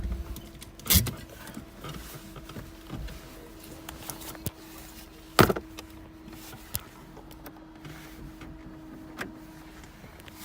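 A drift car's engine cuts off as it is parked. A faint steady hum carries on afterwards, broken by two sharp clunks, one about a second in and one about five seconds in, and a few lighter clicks.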